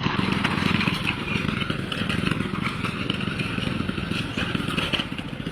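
A vehicle engine running steadily, with a fast, even rattle.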